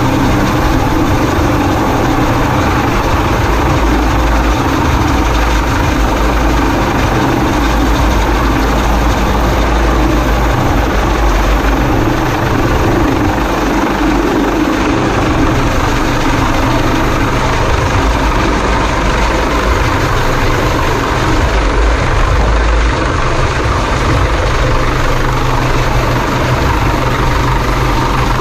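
Coast Guard helicopter hovering close by during a hoist, its rotor and turbine noise loud and steady throughout.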